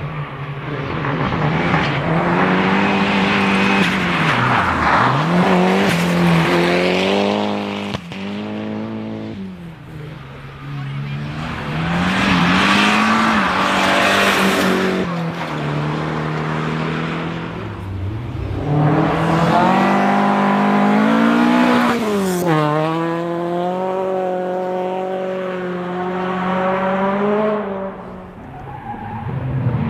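Rally cars passing one after another at speed on a closed special stage, engines revving hard. The engine pitch climbs through the gears and drops sharply under braking and downshifts, each car swelling loud and then fading.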